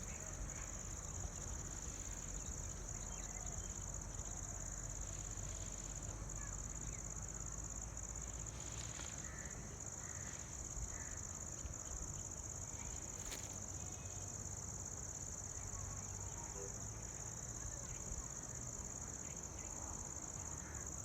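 Crickets singing in a continuous, high-pitched, unbroken trill, with a few faint brief chirps over it.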